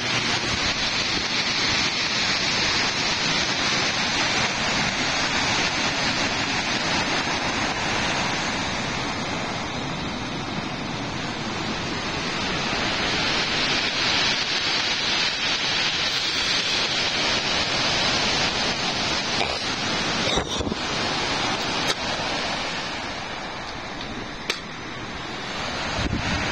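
Typhoon storm noise: a steady rush of wind and water that swells and eases slowly, with a few sharp clicks past the middle.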